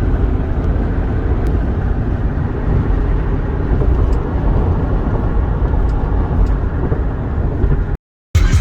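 Steady low rumble of road and engine noise heard from inside a moving vehicle. It cuts off abruptly just before the end.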